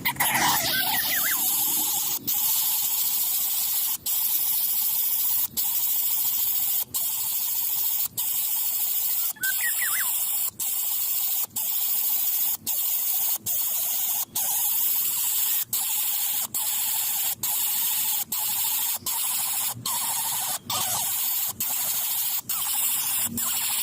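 Steady high hiss, broken by brief drop-outs about once a second, with a short faint squeak about ten seconds in.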